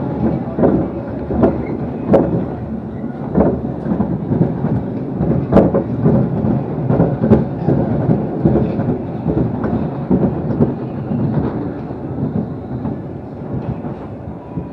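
Amusement-ride car rumbling along its track, with repeated clunks and knocks from the wheels and track joints, about one or two a second.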